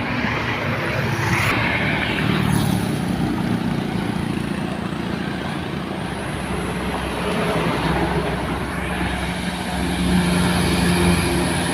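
Heavy diesel truck engine pulling up a steep climb: a steady low drone over road noise that grows stronger in the second half.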